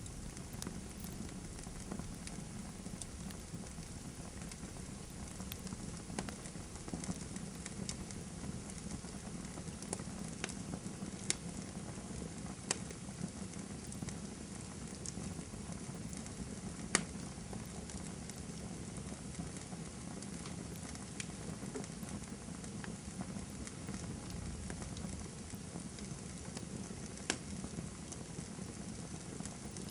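Campfire of burning firewood crackling, with scattered sharp pops over a steady low rush of the flames. The loudest pop comes a little past the middle.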